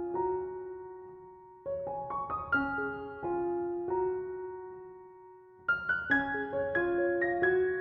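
Background piano music: a gentle melody in short phrases. A new phrase starts about two seconds in and ends on a held note that fades away, and another phrase begins near the end.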